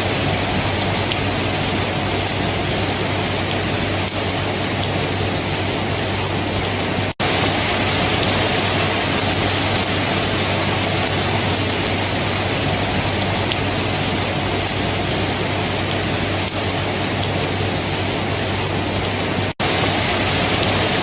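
Steady, even rain, with two momentary dropouts where the sound cuts out for a split second, about a third of the way in and near the end.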